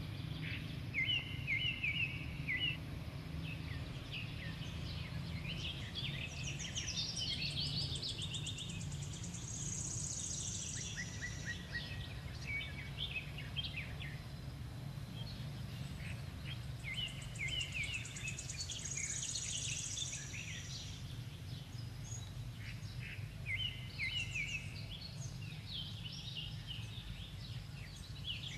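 Birds chirping and singing, the same quick chirping phrase coming back several times, with higher trills now and then, over a steady low rumble of background noise.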